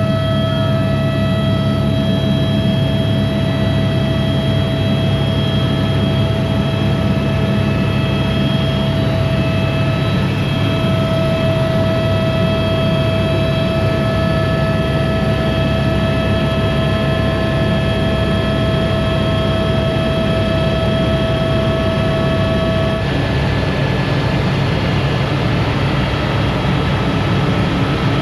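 Aircraft engine droning steadily, with a constant whine over it that stops about 23 seconds in.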